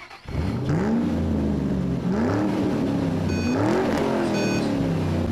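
Racing car engines revving up and down repeatedly, as if shifting through the gears, with two brief high squeals in the second half.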